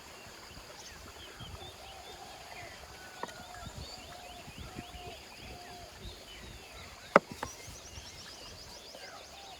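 Outdoor ambience full of small bird chirps and calls, with a lower arched call repeating every half second or so, and one sharp click about seven seconds in.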